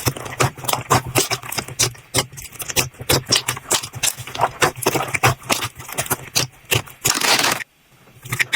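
Slime being squeezed and poked by hand, giving rapid wet clicks, pops and crackles. About seven seconds in comes a longer hissing squelch, then a brief pause.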